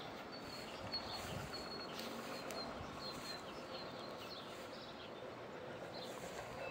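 Small birds chirping, a run of short high notes repeating every half second or so, over quiet outdoor background noise.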